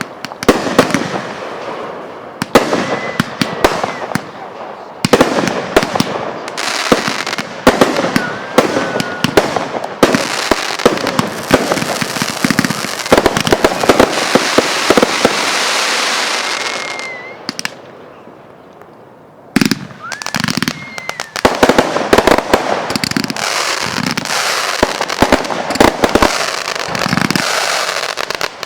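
Fireworks going off in quick succession: many sharp bangs with crackling between them. A long stretch of dense crackling hiss runs through the middle, then a brief lull before the bangs start again.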